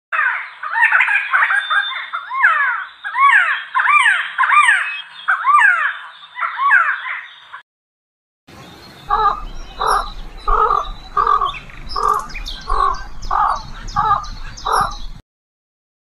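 Birds calling: a fast run of overlapping, sweeping chirps, then after a short break a series of about ten harsh calls, evenly spaced about two-thirds of a second apart.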